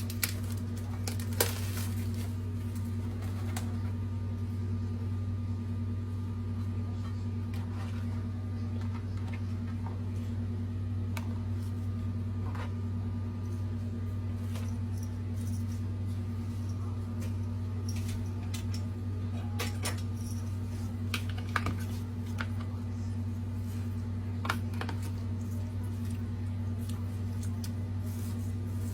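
Scattered light clinks and knocks of utensils against dishware as food is handled, a few sharper ones about a second and a half in and again past the twenty-second mark, over a steady low hum.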